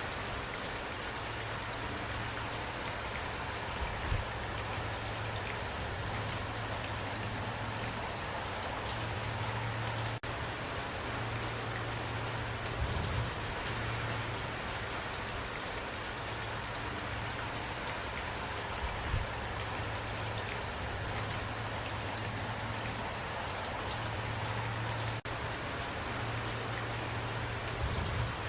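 Steady rain falling, an even hiss of drops, with a few single louder drops standing out now and then.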